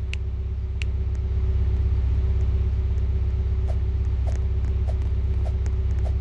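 Steady low rumble of a car running, with a faint steady hum above it and a few light ticks scattered through.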